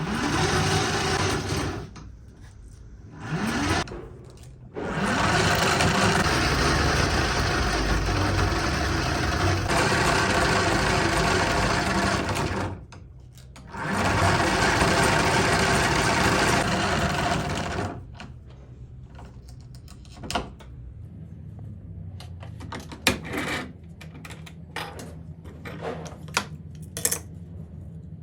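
A motor-driven machine running in several long bursts with a rapid mechanical rattle, stopping briefly twice. After about eighteen seconds it gives way to a lower hum with scattered clicks and knocks.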